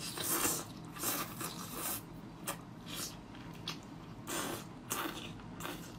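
A person biting and chewing octopus tentacles off a skewer, close to the microphone: a string of short, irregular mouth noises about every half second.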